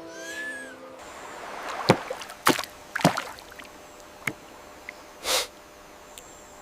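Water splashing in short separate strikes, three close together about two to three seconds in and another a second later, then a brief hissy burst about five seconds in.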